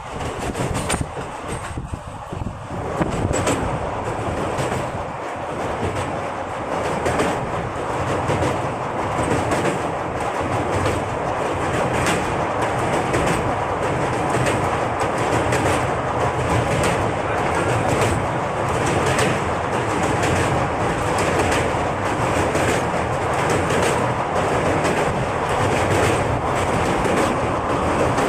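Passenger train coaches running at speed, heard from on board: a steady rumble with rapid, continuous clickety-clack of steel wheels over rail joints. The clatter gets louder over the first few seconds, then holds steady.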